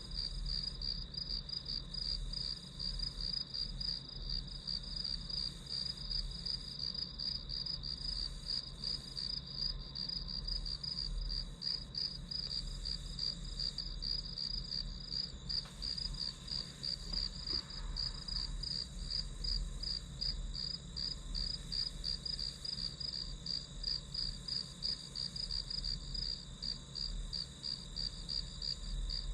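Crickets chirping in a steady, even, rapid rhythm, with a low steady hum underneath.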